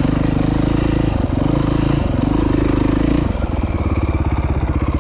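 Off-road motorcycle engine running at low trail speed, its exhaust pulsing rapidly, with the throttle easing off and coming back on a few times.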